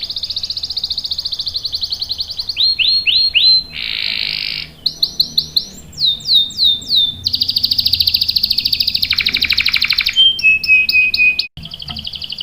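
Canary singing a long song of rolling trills. Fast trills alternate with runs of quick downward-sweeping notes and a short buzzy phrase. A longer trill and a held note follow, then a very brief break near the end before the trilling starts again.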